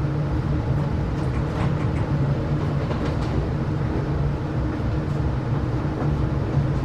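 Running noise inside a passenger coach of a diesel-hauled train: a steady low rumble with a few faint clicks and creaks.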